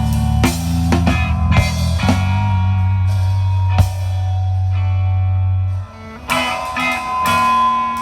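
Live rock band playing, with electric guitar, bass and drum kit. About six seconds in the bass and drums stop and the level drops, and the guitar carries on with a few notes and then a held note.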